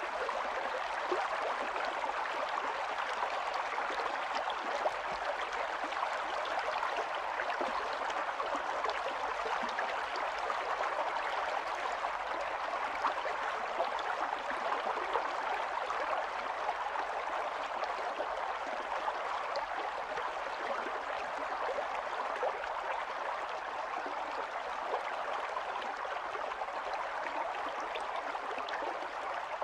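Small stream running over stones, a steady even rush of water with fine trickling and splashing detail.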